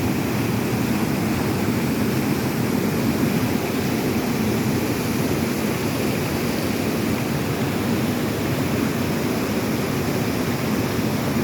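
Mountain river in flood, rushing water making a steady, unbroken noise.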